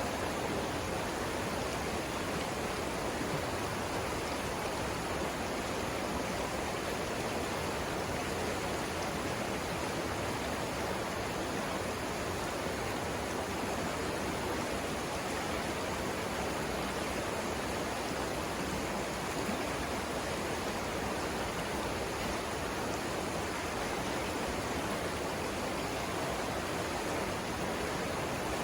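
River water rushing steadily over rapids, an even, unbroken wash of noise.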